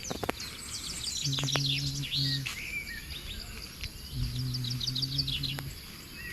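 Several birds chirping and singing in quick, overlapping calls. A low, steady hum comes in twice, for about a second each time.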